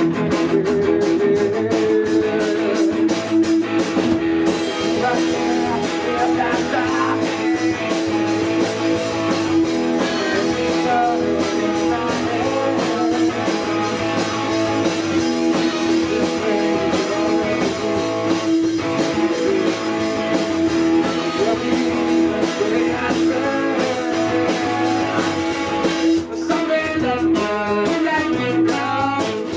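Live rock band playing: electric guitars with bass and drum kit, a long held guitar note running under the playing, which grows busier near the end.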